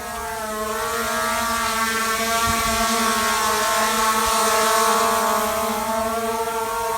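Skydio 2 quadcopter drone hovering and flying, its propellers giving a steady high whine over a hiss. It grows louder toward the middle and eases a little near the end.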